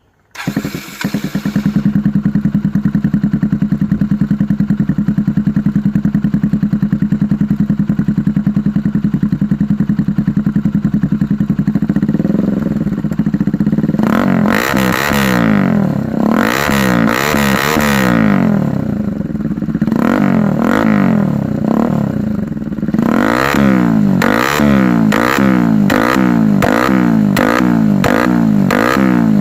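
Bajaj Pulsar NS200's single-cylinder engine running through an aftermarket SC Project-style slip-on exhaust. It idles steadily, then is revved up and let fall twice in the middle. Near the end it gets a string of quick throttle blips, a little over one a second.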